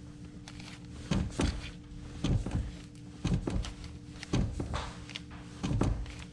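Brake pedal being pumped during a brake bleed: pairs of quick thunks, press and return, repeating about once a second.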